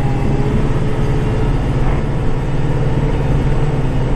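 Kubota tractor's diesel engine running steadily, heard from inside the cab during snow plowing.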